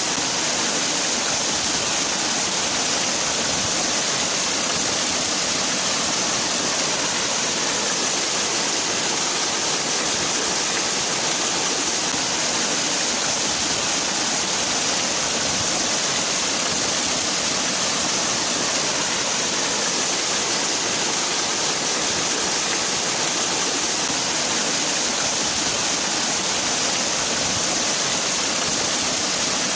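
Waterfall: a steady, unbroken rush of falling water, with a bright hiss at the top and little low rumble.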